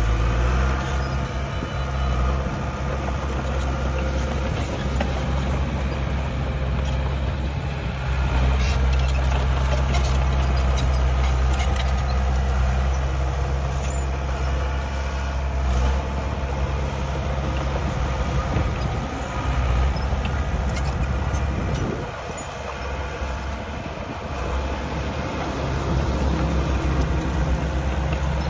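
Diesel engine of heavy earthmoving machinery running under load, with scattered metallic clanks. The engine eases off about two-thirds of the way in, then picks up again.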